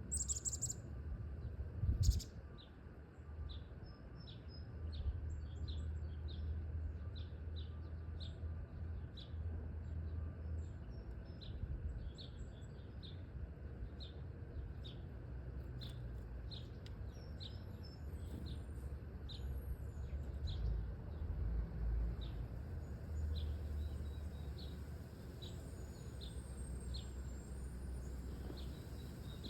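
Small birds giving short, high chip notes, about one or two a second, with two louder sharper calls near the start, over a steady low rumble.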